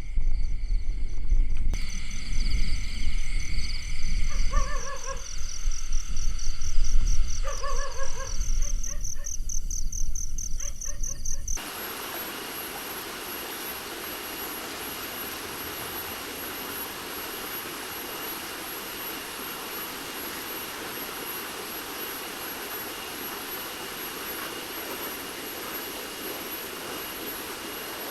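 Forest ambience: for about twelve seconds a low rumble under a fast pulsing high-pitched chirr, with two short calls; then it cuts abruptly to the steady rushing of a stream, with a thin steady insect whine above it.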